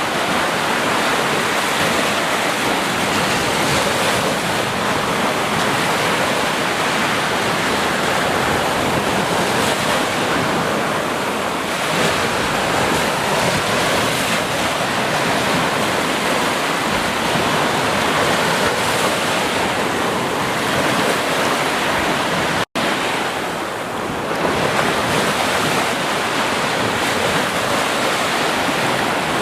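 Ocean surf washing onto a beach in a steady, continuous wash. A split-second gap of silence breaks it about three quarters of the way through.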